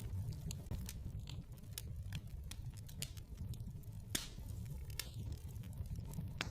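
Wood fire burning in a fireplace: irregular sharp crackles and pops over a steady low rumble of the flames, with one louder pop about four seconds in.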